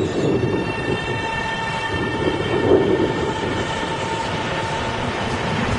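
Taiwan Railways electric commuter train running along the platform, its wheels and body giving a steady rumble with a steady whine on top that fades out near the end.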